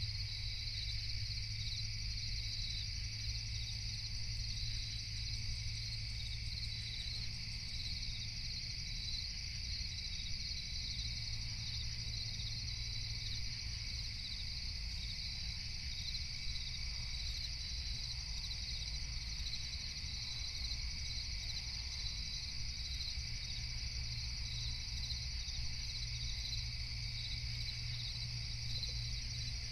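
Crickets chirping steadily in dense, overlapping high trills over a steady low rumble.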